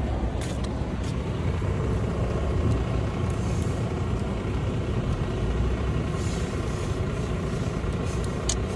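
Steady rumble of a road vehicle running, with a few faint ticks.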